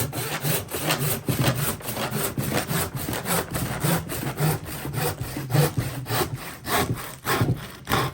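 Collins handsaw sawing through a thick old demolition-wood beam in quick, even back-and-forth strokes, finishing a cut that the power saw did not get all the way through.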